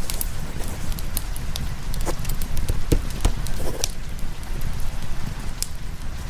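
Fireplace logs crackling with scattered sharp pops over a steady wash of rain and a constant low rumble.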